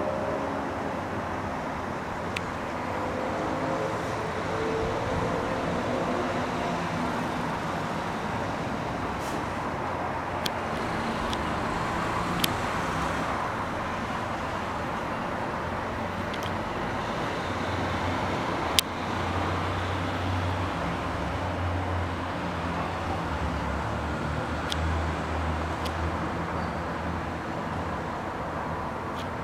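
Steady outdoor rumble of distant road traffic, with a low hum that swells now and then and a few sharp clicks.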